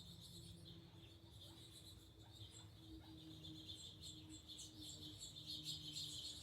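Faint chorus of small birds chirping and twittering around a backyard feeder, with a faint steady low hum underneath.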